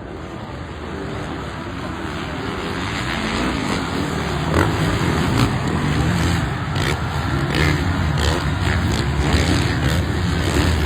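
Motocross bike engines revving, growing steadily louder over the first four or five seconds and then holding, with the pitch wavering up and down and scattered sharp ticks in the second half.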